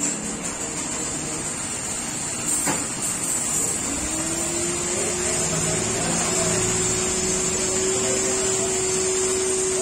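Car-wash machinery running: a steady hiss, and about four seconds in a motor spins up to a steady hum.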